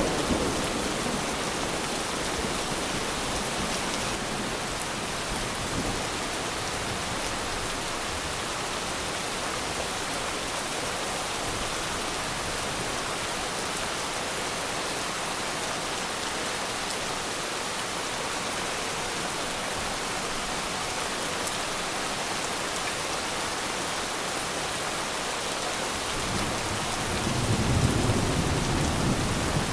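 Steady rain falling as an even, dense hiss. Near the end a low roll of distant thunder swells for a few seconds.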